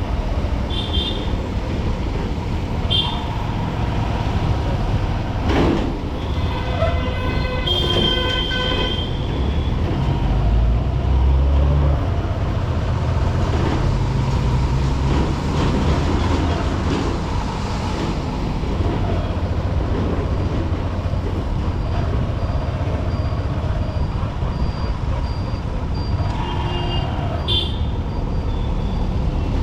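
Honda SP125 single-cylinder motorcycle engine running under wind rumble, amid traffic with other vehicles' horns honking several times: short toots about one and three seconds in, a longer, louder horn around eight seconds in, and more toots near the end.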